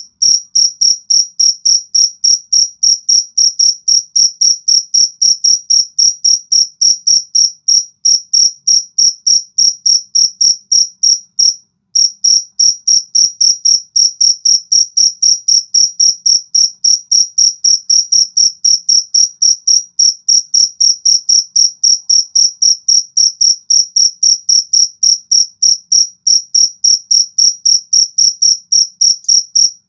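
A cricket chirping steadily, a rapid run of short high-pitched chirps at about four to five a second, with one brief pause a little before twelve seconds in.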